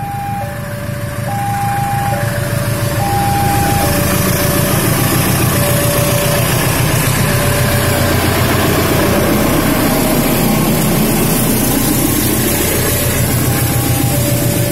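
A passenger train hauled by a GE diesel-electric locomotive passes close by: the engine's rumble and the wheels on the rails build over the first couple of seconds and then stay loud as the locomotive and coaches go by. Over it, a level-crossing warning alarm keeps up an alternating two-note chime.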